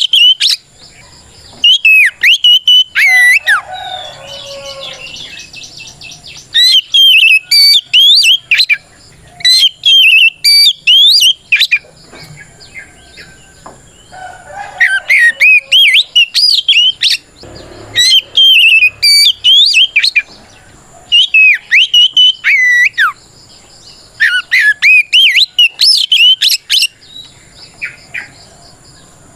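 Oriental magpie-robin (kacer) singing a loud challenge song of sharp, rapidly gliding whistled notes. The notes come in runs of a few seconds with short pauses between them; this is the bird calling out to a rival.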